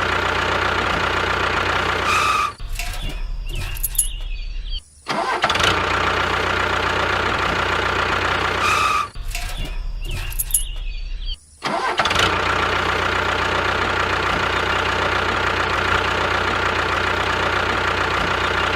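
Small motor of a homemade mini tractor running steadily with a faint whine. Twice the sound changes abruptly to a thinner, quieter texture for about two seconds and drops out briefly before the steady running resumes.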